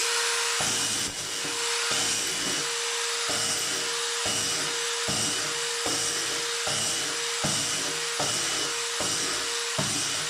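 DeWalt DCF887 brushless impact driver running at its highest speed setting, driving a drill bit through a board about 2 cm thick. A steady whine with a pulse that repeats a little faster than once a second as the bit bores into the wood.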